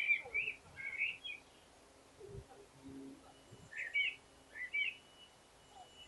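A songbird singing two short phrases of warbled notes, one at the very start and another about three and a half seconds in.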